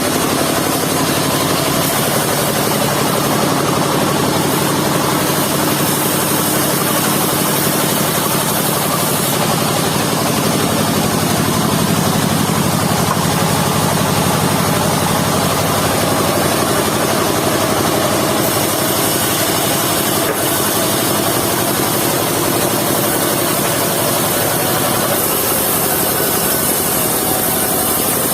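Engine of a portable circular-saw sawmill running steadily and loudly, with a dense, unbroken machine noise.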